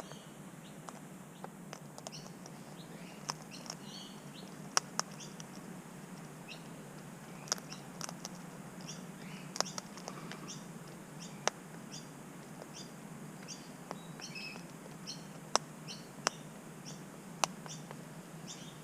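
Sulphur-crested cockatoos feeding on seeds at a bird stand: sharp irregular clicks and taps of beaks on seed and stand, with many short high bird chirps throughout and a low steady hum underneath.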